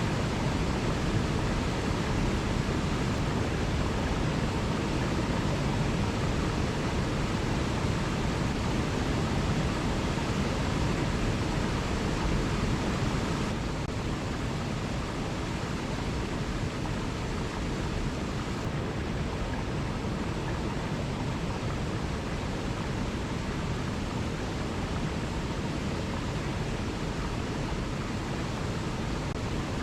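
Waterfall: a steady rush of falling water, dropping slightly in level about halfway through.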